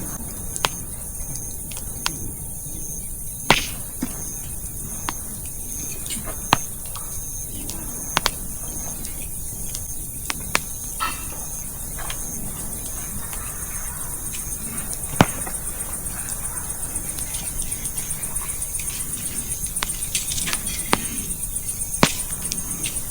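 Wood campfire crackling, with sharp irregular pops every second or two as the firewood burns. Crickets chirp steadily and high in the background, growing more prominent in the second half.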